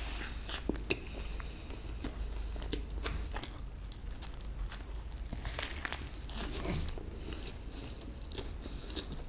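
A person biting into and chewing a burger: a run of short, irregular crunches and mouth clicks.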